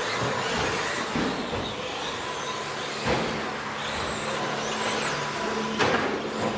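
Electric 1/10 scale 2WD RC race trucks with 13.5-turn brushless motors running laps: a steady whine of motors and tyres on the track, with two sharp knocks, one about halfway through and one near the end.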